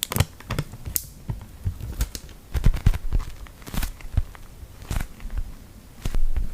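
Close-miked eating sounds: irregular moist clicks, crackles and soft thumps of biting and chewing.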